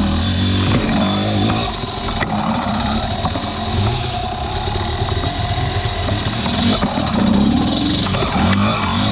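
Enduro dirt bike engine revving up and down as it is ridden, its pitch rising and falling repeatedly, with a few brief knocks.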